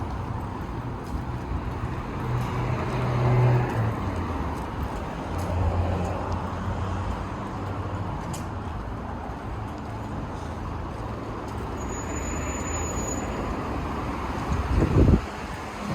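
Steady vehicle and road noise with a low hum, and a brief low rumble near the end.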